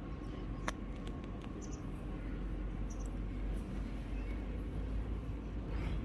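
A few faint clicks and ticks of fingernails working through hair to pick and crush lice nits, the sharpest about a second in, over a steady low hum.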